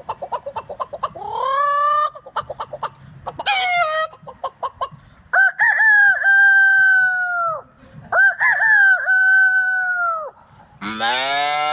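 A man imitating a chicken with his voice: rapid clucking with a rising squawk, then two long rooster crows. Near the end a lower, drawn-out animal call begins.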